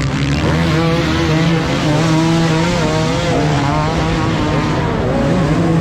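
Several motocross dirt bike engines running together, revving up and down in pitch as they accelerate and shift.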